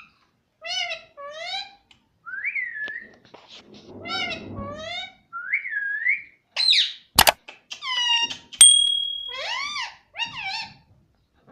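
Pet ring-necked parakeet calling in a string of short, squeaky, pitch-sweeping notes, many in two-note pairs like its taught word 'mummy', with swooping whistles between. There is one sharp click about seven seconds in, and a brief steady whistle tone a little later.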